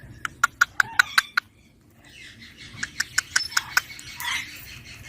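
Young rose-ringed parakeet giving two quick runs of short, sharp chirps, the first starting just after the beginning and the second about three seconds in.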